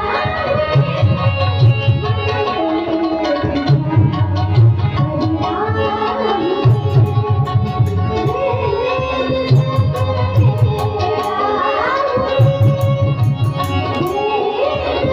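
Devotional bhajan music: tabla playing a steady repeating rhythm under a gliding melodic line, with small cymbal-like clicks joining about halfway through.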